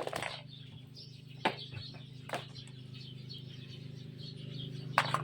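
Small birds chirping in the background over a steady low hum, with a few sharp knocks: one right at the start, others about a second and a half and two and a half seconds in, and a louder one near the end.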